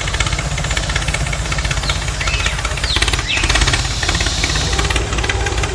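Mini tractor running with a steady, rapid knocking rattle like a small diesel engine, with a few brief high squeaks about two to three seconds in.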